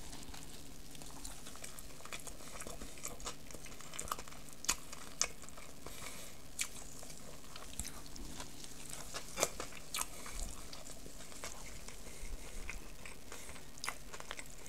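A person chewing a mouthful of pulled pork sandwich, with soft bun and coleslaw. It is quiet, with scattered small wet clicks and crunches from the chewing.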